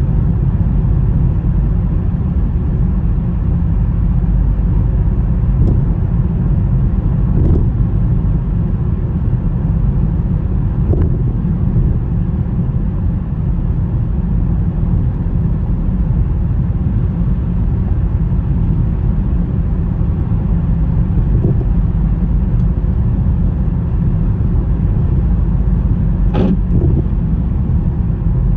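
Steady low rumble of a car driving through a snowstorm, road and wind noise, with a few faint ticks, the clearest near the end.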